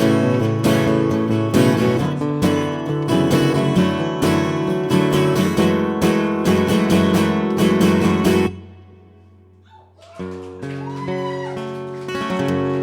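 Acoustic guitar strummed steadily as the song's closing instrumental, stopping abruptly about eight and a half seconds in. A quieter stretch of softer tones follows.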